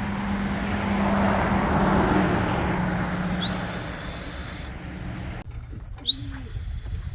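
Two long, high whistles, each sliding up quickly and then held steady for about a second, the second near the end. Under the first, a steady rumbling noise with a low hum cuts off abruptly shortly after it.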